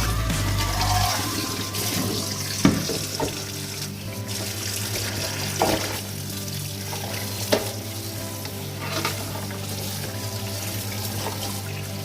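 Tap water running into a sink as raw chicken is washed, with three sharp knocks about two and a half, five and a half and seven and a half seconds in.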